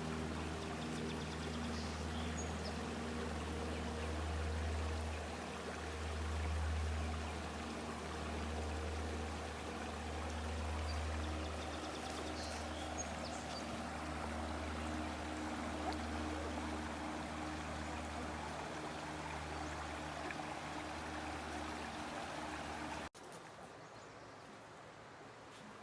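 Steady rush of flowing water over a low, slowly swelling hum. It cuts off abruptly near the end to a much quieter outdoor background.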